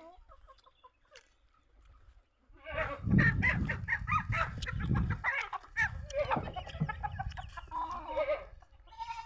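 Chickens clucking and squawking loudly, starting about three seconds in and going on for several seconds; a goat starts bleating near the end.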